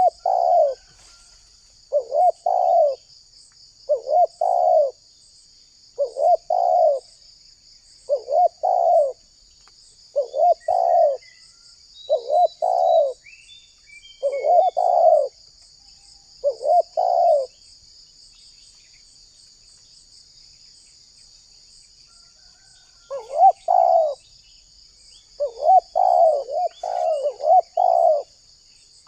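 Spotted dove cooing: a two-part coo phrase repeated about every two seconds, nine times, then a pause of about five seconds and a quicker run of coos near the end. A steady high insect drone runs underneath.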